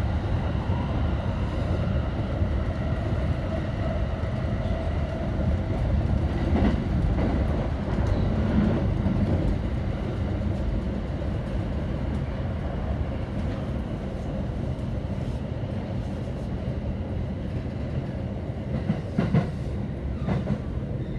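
Running noise heard inside a JR East Tokaido Line electric commuter train: a steady rumble of steel wheels on the rails, gradually getting quieter, with a few sharp clacks over rail joints near the end.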